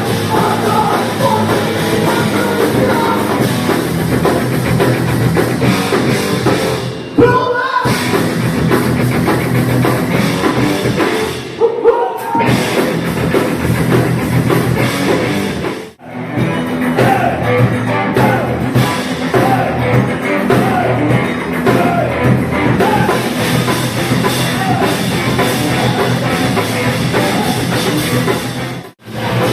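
A crossover thrash metal band playing live, with a fast, loud drum kit and distorted guitars. The music breaks off abruptly a few times where clips are cut together.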